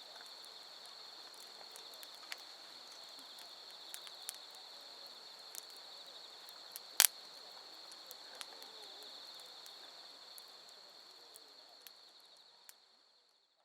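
Wood fire crackling with scattered pops, one much sharper and louder than the rest about halfway through, over the steady high trill of night insects. The whole sound fades out over the last few seconds.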